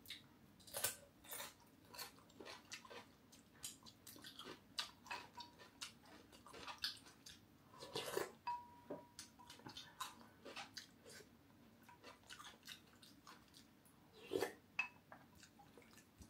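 Quiet, close-miked chewing and crunching of crisp food, starting from a bite of fresh cucumber, in many short crunches. About eight seconds in, a spoon clinks against a glass bowl and leaves a brief ring.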